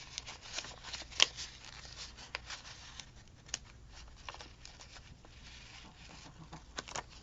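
Scissors cutting up a paper sticker: a series of small sharp snips with light paper rustling, the loudest about a second in and two close together near the end.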